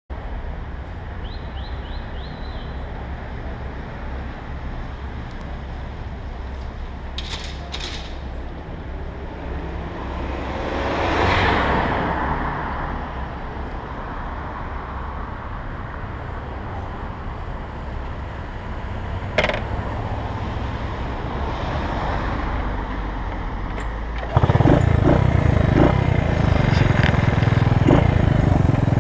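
1968 Honda S90's small single-cylinder four-stroke engine running steadily at idle, with a car passing about eleven seconds in. Near the end the engine suddenly gets much louder and stays loud as the bike pulls away.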